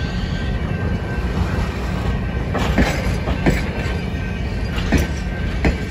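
Railway passenger cars rolling slowly past close by: a steady low rumble of wheels on track, broken by a few sharp, irregular clacks from the wheels over the rail joints in the second half.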